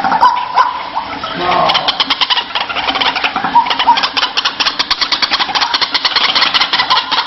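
White-breasted waterhen calling: a few short harsh notes, then about two seconds in a fast, rattling run of harsh pulses that goes on steadily.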